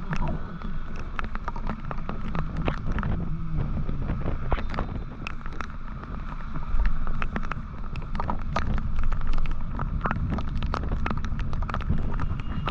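Motorcycle engine running at riding speed, with wind on the microphone and many short, sharp clicks and knocks.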